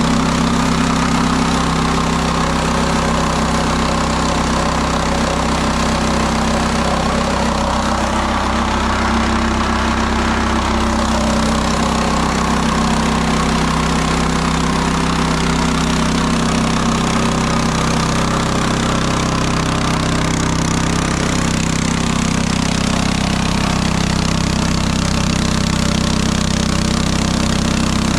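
Small gasoline engine of a portable bandsaw sawmill running steadily at a constant speed.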